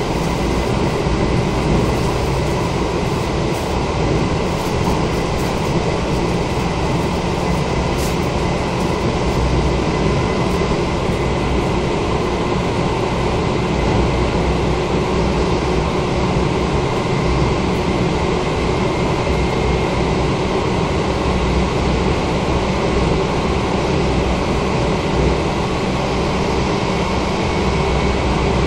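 Steady running noise heard inside the passenger car of an Izukyu 2100 series electric train travelling between stations: a continuous rumble of wheels on rails with a faint steady high tone.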